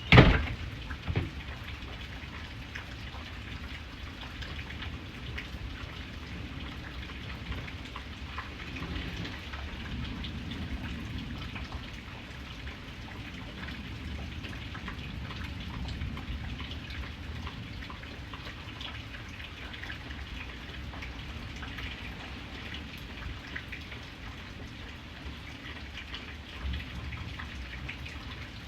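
Steady rain falling, with individual drops heard striking a surface. A loud sharp crack comes right at the start and a smaller one about a second later.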